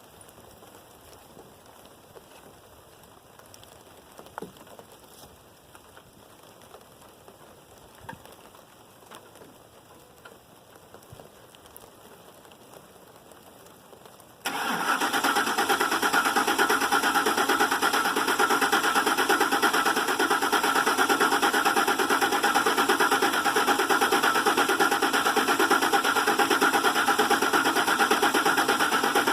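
Starter motor cranking a Ford 5.4 L 3-valve Triton V8 with its crank position sensor unplugged, so it turns over in an even pulsing rhythm without firing, to build oil pressure after a timing chain and oil pump replacement. The cranking starts suddenly about halfway through, after a quiet stretch with a few faint clicks.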